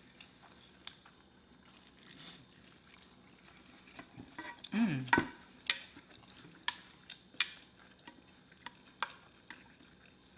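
Close-miked eating sounds: wet chewing with scattered sharp lip and mouth smacks, and a brief hum from a voice about five seconds in.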